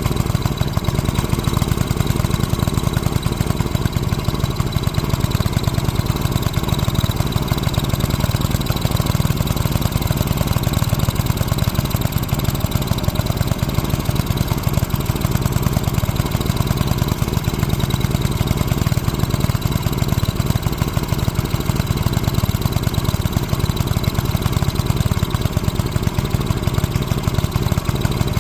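Small Briggs & Stratton gasoline engine on a garden tiller running steadily at idle.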